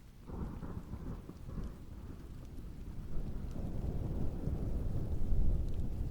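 A thunderclap rolling over steady rainfall. It starts suddenly just after the beginning, then turns into a low rumble that builds and grows louder toward the end.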